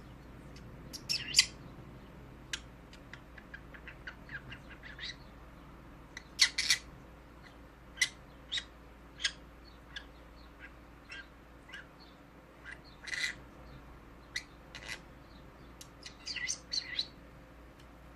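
A green-cheeked conure (yellow-sided) making short, sharp chirps and squeaks at irregular intervals, with a few louder calls and a quick cluster of calls near the end.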